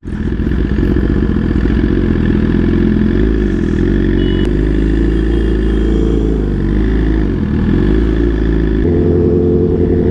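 Superbike engine running under way, with the pitch dipping and rising a few times in the middle as speed and throttle change.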